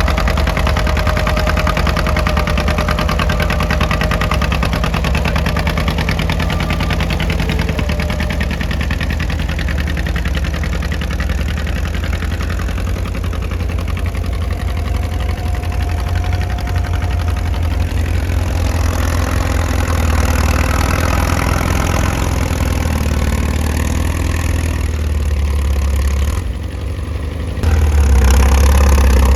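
Antique farm tractor engine running steadily with a low, fast, even beat. The sound drops briefly about 27 seconds in, then comes back louder.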